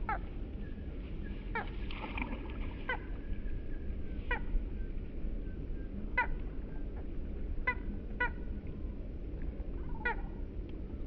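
A bird giving short, harsh calls that slide downward in pitch, about eight of them spaced one to two seconds apart, over a steady low rumble.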